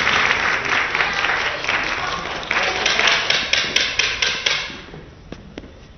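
Arena crowd applauding with many sharp claps, dying away about five seconds in, followed by a few light taps.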